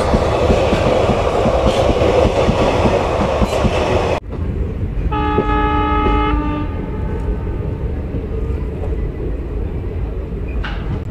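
Coaches of another train rushing past on the next track, a loud rush of wheel and air noise that cuts off suddenly about four seconds in as the last coach clears. About a second later a train horn sounds for about a second and a half, over the low rumble of the moving train.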